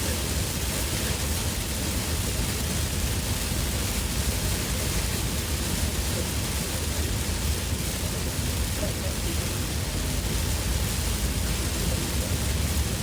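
Heavy monsoon rain on a moving car, heard from inside as a steady, even hiss over a low road rumble.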